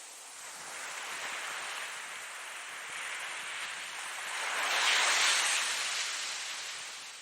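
Ocean surf: waves breaking and washing in as a hiss that swells a few times, loudest about five seconds in, then dies away.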